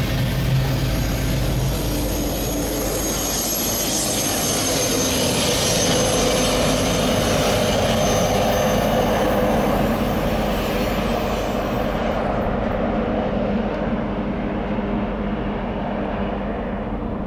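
Freight train passing close by: diesel-electric locomotives running under power, with steady wheel-on-rail noise and a high whine that fades out about twelve seconds in.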